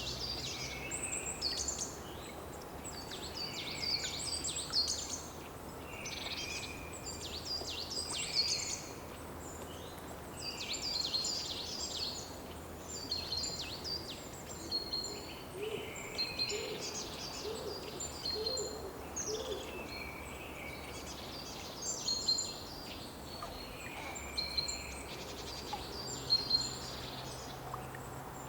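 Songbirds singing in short, high, twittering phrases that repeat every couple of seconds, over a faint steady low hum of background noise. A short series of soft, low calls comes in about halfway through.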